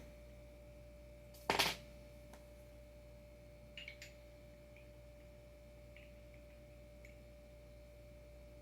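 A single short knock or clatter about a second and a half in, then a few light clicks near four seconds, over a faint steady hum.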